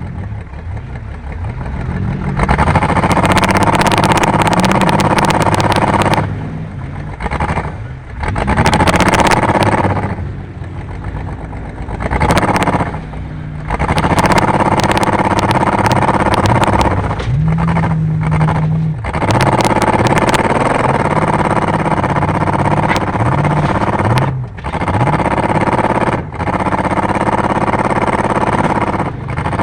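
Car engine running hard under throttle, its pitch rising and falling, with repeated brief drops where the throttle is lifted. Scattered knocks and clatter sound over it.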